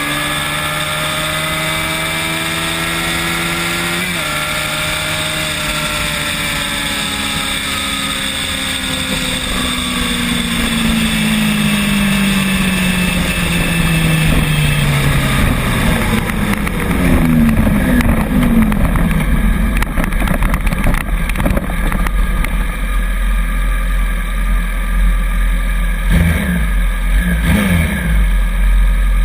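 Ride on a Bird rental electric scooter: a steady motor whine that slowly falls in pitch over about ten seconds, then wind rumbling on the microphone, growing louder in the second half.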